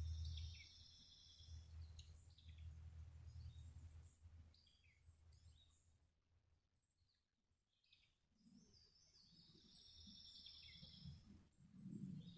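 Faint outdoor quiet with a small songbird's short trilled chirps at the start and again about nine seconds in. A low engine hum fades out in the first half second, and a few soft low thumps come near the end.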